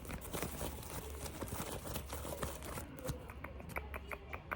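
Close-miked ASMR handling sounds: dense crinkling and clicking for about three seconds, then a run of light, separate taps.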